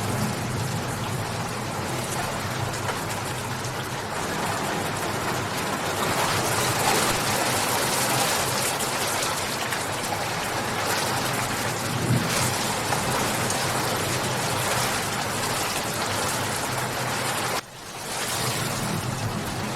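Steady rainfall, an even hiss of rain falling on surfaces. It briefly cuts out near the end and fades back in.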